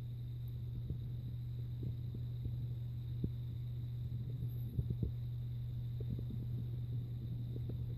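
A steady low hum with scattered soft knocks, like handling noise on the microphone.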